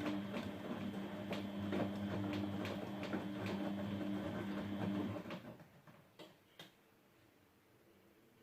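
Grundig GWM4762WE20 washing machine running during its rinse stage: a steady hum with repeated knocks, stopping about five seconds in, followed by two short clicks.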